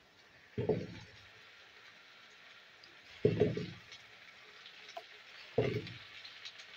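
Raw potato chunks dropped into hot oil in a nonstick kadai, three times about two and a half seconds apart. Each drop lands with a thud and sets off a short burst of sizzling over a faint steady sizzle.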